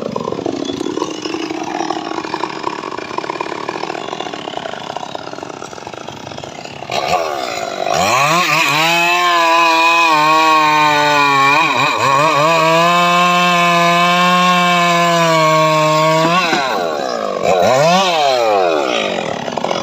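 Engine of a homemade log-sawing rig cutting a sengon log. It runs loud from the start and steadies into a strong high engine note from about eight seconds in, dipping briefly twice as it bogs under the cut. It drops off near sixteen seconds, then dips and picks up again about a second later.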